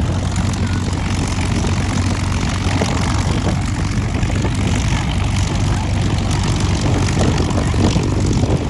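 Aircraft engine running steadily, a low droning hum over a broad rushing noise.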